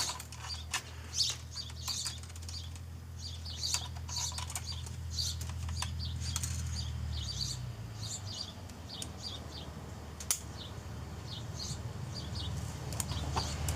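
Small birds chirping in short, irregular calls, with a few sharp clicks, over a low steady hum.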